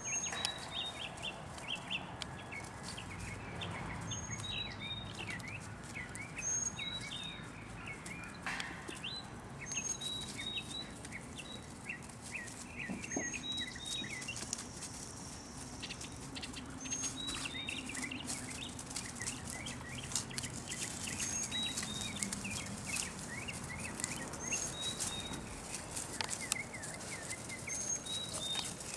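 Birds chirping throughout, with one bird repeating a short, high call every couple of seconds.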